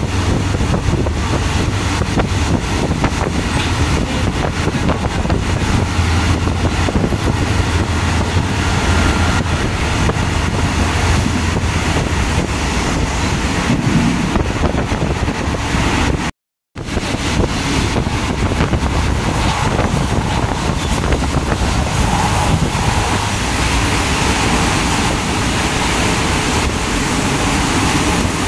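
Steady rush of wind and running noise from a moving passenger train, heard through an open carriage window, with a low rumble underneath. The sound cuts out for a split second a little past halfway.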